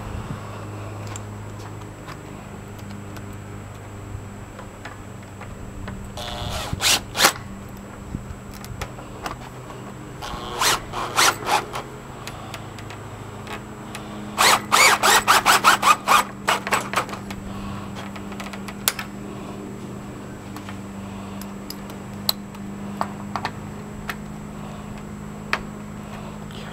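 Makita cordless driver with a magnetic nut-driver bit running in short bursts as it drives bolts into a fence gate latch: three bursts of rapid strokes, the last and longest about two seconds long. A steady low hum sits underneath.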